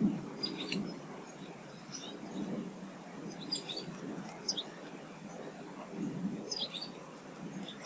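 Small songbirds giving short, high chirps in brief clusters several times over a steady low background rumble.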